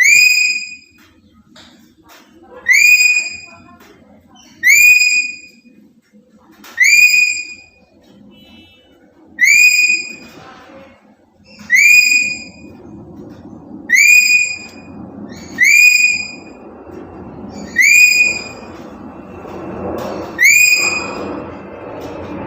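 Black-capped lory giving a loud whistled call about every two seconds, ten times, each note sliding sharply up and then held briefly. A low background murmur grows louder in the second half.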